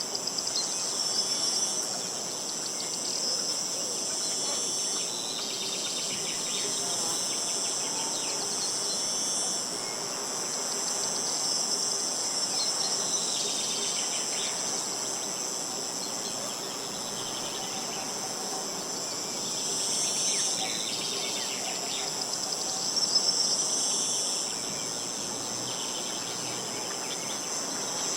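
A steady, high-pitched chorus of insects trilling, with a few brief bird chirps now and then.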